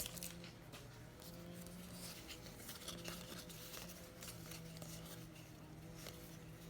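Faint, steady hum of a motorised machine running outside, heard through the walls and described as struggling, with its tone dropping out briefly now and then. A few light ticks over it.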